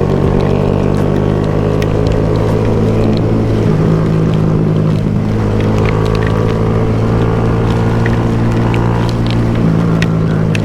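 Honda Grom motorcycle engine running under way at a fairly steady pitch, which shifts a little about four seconds in and again near the end, with scattered sharp ticks over it.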